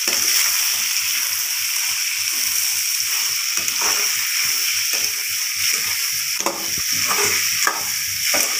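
River crab pieces sizzling in hot oil in an aluminium kadai while a metal spatula stirs them. The spatula scrapes and knocks against the pan, with a run of sharper strokes in the second half.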